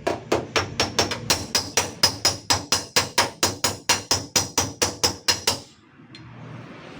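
Hammer tapping quickly and evenly on a car's sheet-steel body panel, about four ringing strikes a second, to work out a small dent. The tapping stops suddenly about five and a half seconds in.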